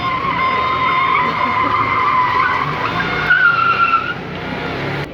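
Car tyres squealing hard under a running engine: one long steady squeal, then a higher squeal, loudest about three and a half seconds in, before it cuts off near the end.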